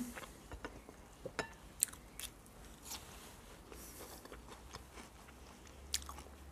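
Close-up eating sounds from a person chewing food: soft chewing with scattered short mouth clicks and smacks.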